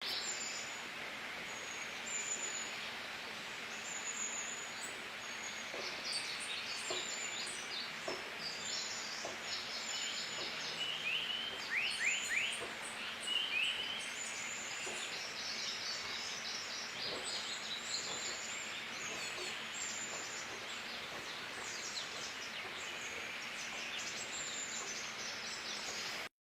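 Forest ambience: a steady background hiss with scattered high bird chirps throughout. A quick run of sharp, falling whistled notes comes about halfway through.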